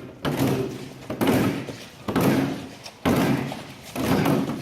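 A string of heavy impacts, about one a second, five in all, each a hard hit followed by a short rattling decay.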